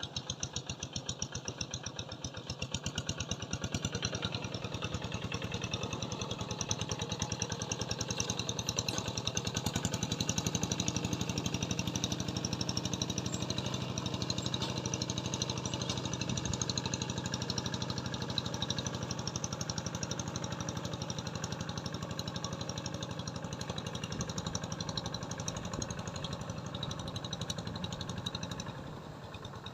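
A small engine running steadily with a fast, even chugging, growing louder a few seconds in and fading somewhat near the end.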